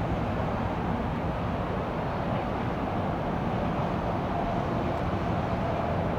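Steady jet noise of an Airbus A350-900 airliner, a constant low rumble with a faint whine that comes up about two thirds of the way through.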